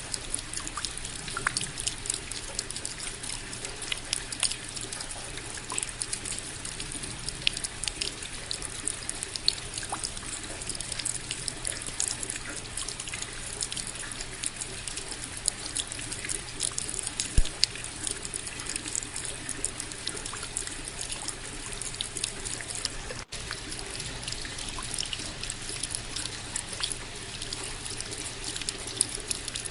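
Steady rain, with many separate drops ticking close by and water trickling underneath. A momentary break in the sound about two-thirds of the way through.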